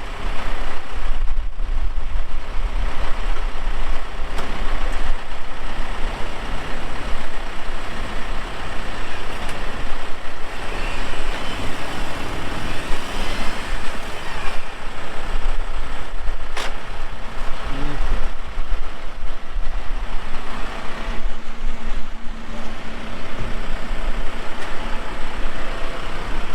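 Land Cruiser engine running under load during a recovery pull on a truck stuck in mud, a loud, continuous vehicle noise. A single sharp click sounds near the middle.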